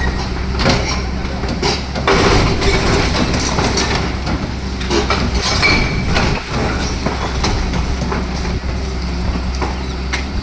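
Heavy diesel machinery running steadily while masonry cracks and debris clatters down in a building demolition.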